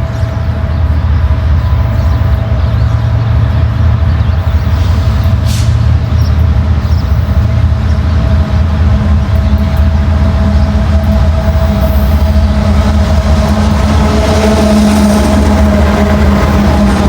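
Ferrosur diesel-electric freight locomotive running, a steady low engine drone that grows slightly louder.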